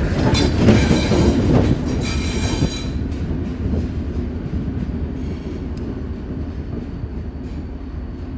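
Diesel locomotive and passenger cars rolling past at close range, wheels clattering over the rails, then the rumble fading steadily as the train pulls away.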